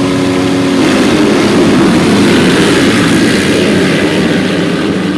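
Several motocross bikes racing at full throttle, their engines overlapping. A single held engine note gives way about a second in to a louder mix of many engines, which eases slightly toward the end.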